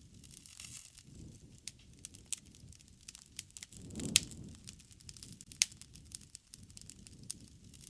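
Wood fire crackling: irregular sharp pops and snaps over a low rumble of the flames, with a louder swell and pop about four seconds in.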